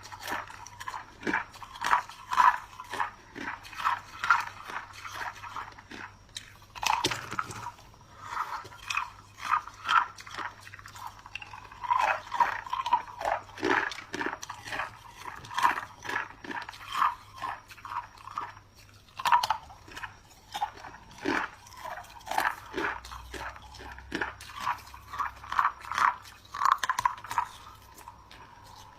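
A person biting and chewing chunks of clear ice, with sharp crunches about once or twice a second.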